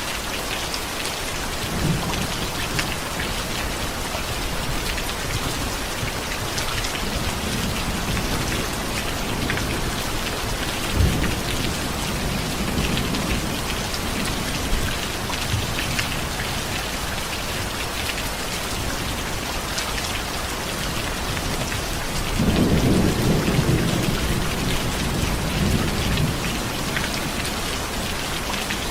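Steady rain falling, a continuous even hiss, with low rolls of thunder coming and going. There is a short sharp crack near the middle, and the longest, loudest rumble comes about three quarters of the way through.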